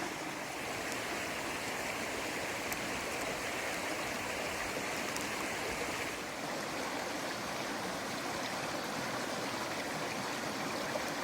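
Creek water flowing in a steady, even stream, its sound thinning slightly about six seconds in.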